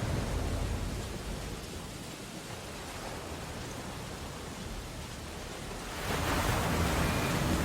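Rain on window glass over crashing ocean surf: a steady hiss with a deep rumble underneath that eases off in the middle and swells again about six seconds in.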